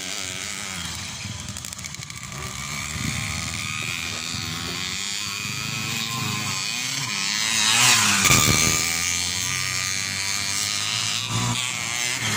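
Motocross bikes running on a dirt track, their engines revving up and down. One bike comes close and passes about eight seconds in, the loudest moment.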